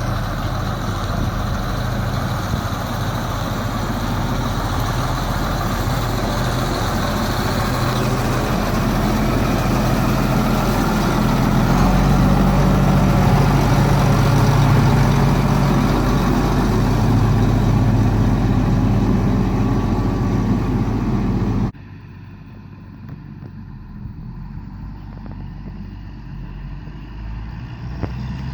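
Truck on the road, heard from inside a cab: a steady low engine drone with road and rattle noise, getting somewhat louder partway through. About 22 seconds in it cuts off suddenly, leaving a much quieter steady hum.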